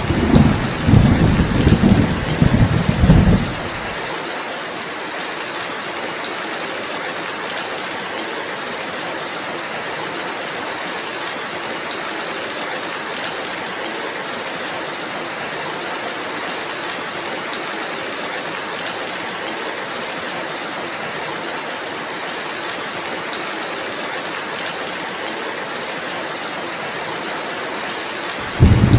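Steady rainfall hiss throughout. A low rumble of thunder fills the first few seconds and dies away about four seconds in. Another low rumble starts near the end.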